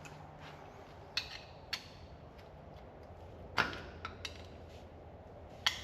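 Scattered sharp metal clicks and knocks of hand tools working on a truck's rear axle spanner nut and its locking tabs, five or so in all, the loudest about three and a half seconds in.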